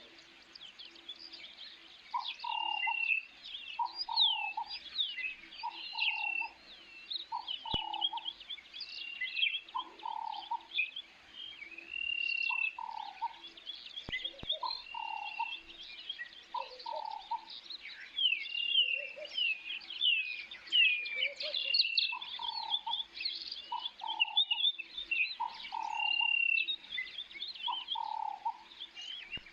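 Birds chirping and calling: many quick chirps and trills, with a lower call repeated steadily about every second and a half.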